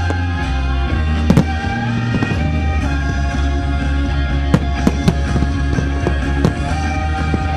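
Music with a heavy, steady bass and held notes, with fireworks going off over it: several sharp bangs, the clearest about a second and a half in, at four and a half seconds and at six and a half seconds.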